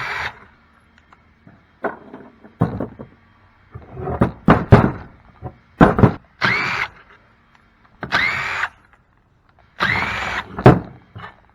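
Cordless Craftsman power drill backing out bolts from a cast-aluminium pump housing in several short runs, its motor whining up and falling away each time. Short metallic clanks and knocks come between the runs.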